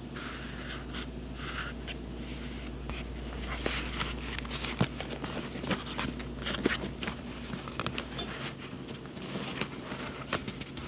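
Paper and journaling supplies being handled: irregular crisp rustles, swishes and small clicks and taps.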